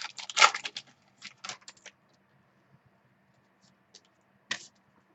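Trading cards and their packaging being handled: a quick run of clicks and rustles in the first two seconds, then a single short rustle about four and a half seconds in.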